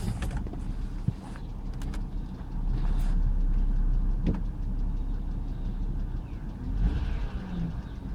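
2007 BMW X3's engine idling with a steady low rumble, which grows louder for a second or two about two and a half seconds in.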